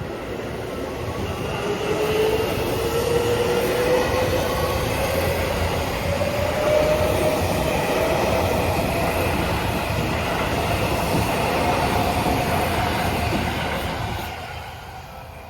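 Seibu 6000 series electric train passing: loud wheel-on-rail running noise with a whine rising steadily in pitch, building over the first two seconds and fading near the end as the train clears.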